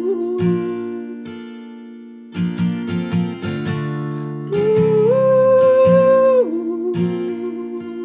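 Acoustic guitar strumming chords in an instrumental break of a pop-folk song, with a held, gliding melody note sustained over the chords.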